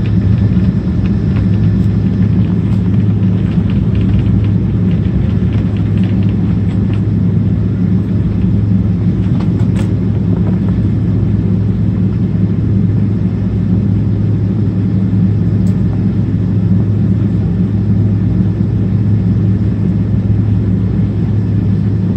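Cabin noise of a Boeing 777-200ER taxiing, heard from a window seat: a steady low rumble and hum from its GE90 engines at taxi power and the rolling aircraft, with a few faint light rattles.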